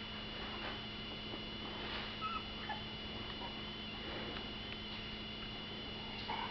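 Faint squeaks from two-week-old bulldog puppies, a couple of short ones about two seconds in, over a steady electrical hum.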